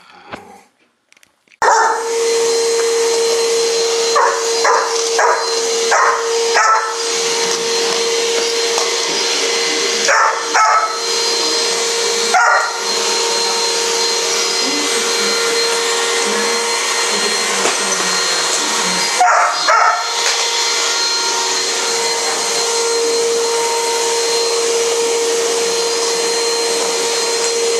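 A vacuum cleaner switches on suddenly about a second and a half in and runs steadily with a constant whine. A dog barks at it in short bouts over the motor noise, mostly in the first twenty seconds.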